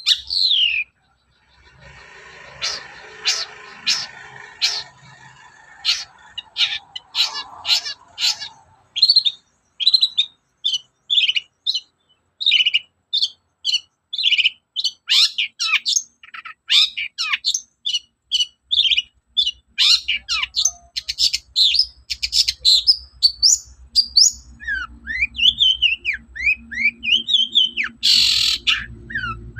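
Long-tailed shrike (cendet) singing vigorously. It gives a rapid, unbroken string of short, sharp chirps and downslurred whistles, with a harsh rasping note near the end.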